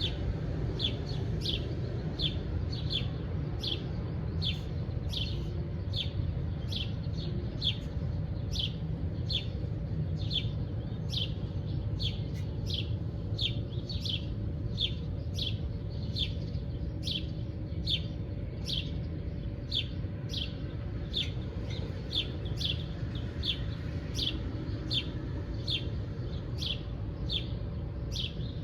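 A bird chirping over and over, short high chirps about twice a second in an even rhythm, over a steady low rumble and a faint steady hum.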